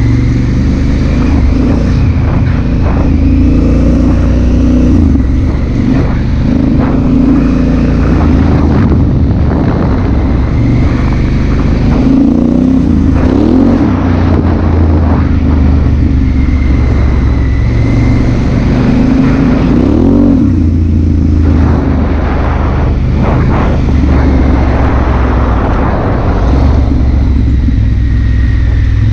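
Honda Africa Twin CRF1000L's parallel-twin engine running under way, heard from the helmet with wind rush. The engine pitch rises and falls with the throttle, and there are short knocks from the ride here and there.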